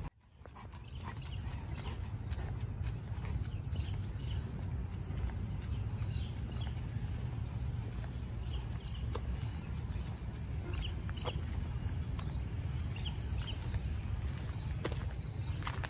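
A steady high-pitched drone of insects, with many short chirps over it and a low rumble underneath. It fades in over the first second.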